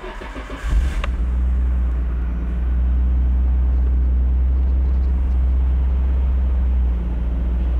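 1989 Nissan Skyline GT-R R32's twin-turbo straight-six starting: a brief crank, catching under a second in, then settling into a steady, rumbling idle. It is a cold start in weather below minus 20.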